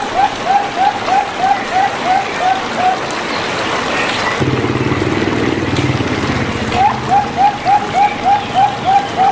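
Zebra dove (perkutut) calls in a rapid run of short rising notes, about four or five a second, over a steady trickle of running water. The run breaks off about three seconds in; a lower, rough sound fills the middle, and the notes resume about seven seconds in.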